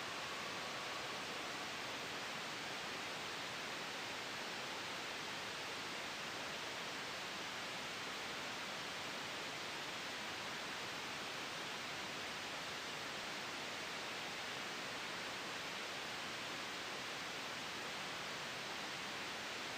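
Steady white noise, a soft, even hiss that stays level and unchanging, blended with a gentle wind. No sudden sounds.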